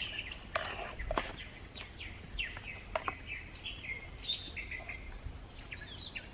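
Small birds chirping over and over, each chirp short and falling in pitch, with a few light knocks mixed in.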